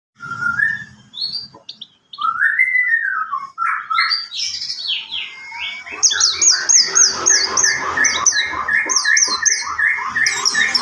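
White-rumped shama singing. It begins with varied clear whistles that slide up and down, and from about six seconds switches to a fast run of rapidly repeated notes.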